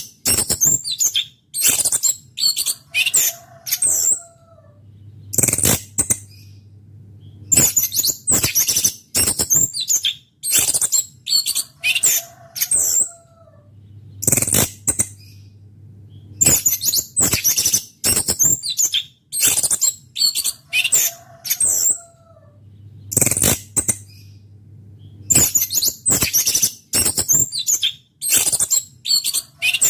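A songbird singing in short, loud, high-pitched bursts of chirps and trills with brief gaps between them; the same sequence of phrases repeats about every nine seconds, as in a looped recording. A faint low hum runs underneath.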